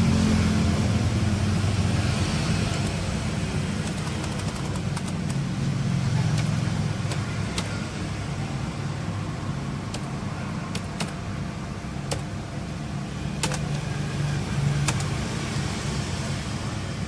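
Steady low rumble of road traffic, with a dozen or so sharp clicks scattered through it.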